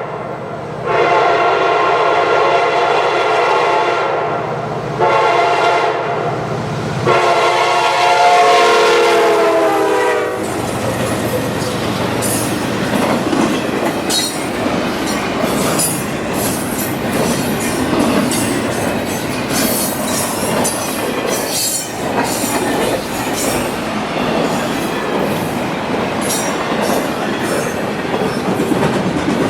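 CSX freight locomotive horn sounding three blasts, the last one dropping in pitch as the locomotive passes. A freight train then rolls by with steady wheel rumble and sharp metallic clicks from the wheels over the rails.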